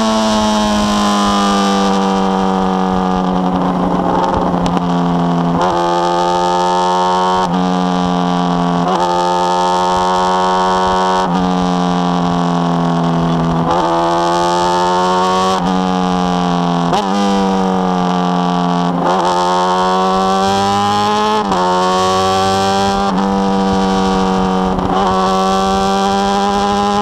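Carbureted inline-four engine of a 2005 Honda Hornet with a 4-into-1 exhaust, revving as the bike rides along. Its note climbs, then drops sharply at each gear change, many times over, with stretches where it falls away as the bike slows.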